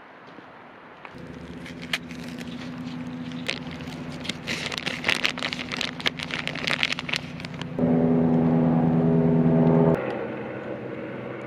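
Honda CT125 Hunter Cub's small single-cylinder engine starts about a second in and runs steadily, with scattered clicking and crackling over it. It then revs higher for about two seconds near the end before dropping back.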